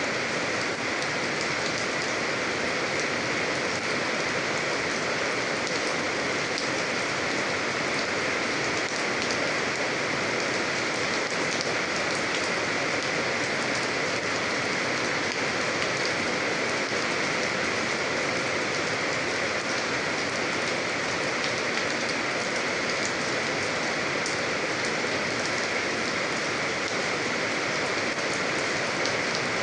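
Steady, even rain falling on a surface, a constant hiss with faint scattered drop ticks.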